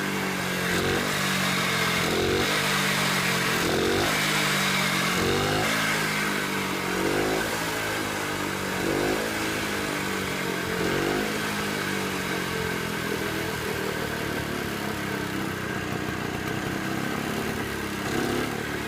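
Split-single two-stroke motorcycle engine running, with the throttle blipped into short revs about every two seconds, then holding a steadier speed in the latter half.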